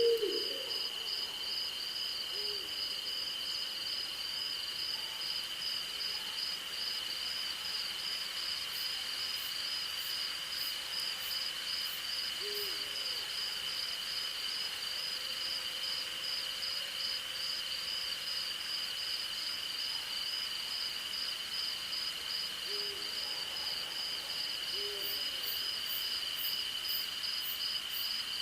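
Night forest chorus of insects and crickets trilling steadily in two high-pitched bands, one of them pulsing, with an owl giving short low hoots: one at the start, then a few more spread through, two of them near the end. Two short runs of very high ticking come from other insects.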